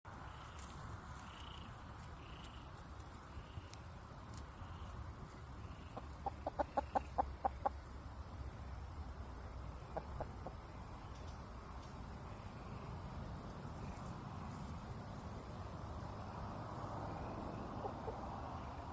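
A steady high insect chorus, with an animal's quick run of about eight short pitched calls about six seconds in, and three more a few seconds later.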